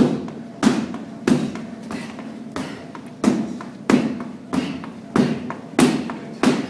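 Strikes landing on Muay Thai pads in a steady rhythm, about three every two seconds, each a sharp slap with a short tail.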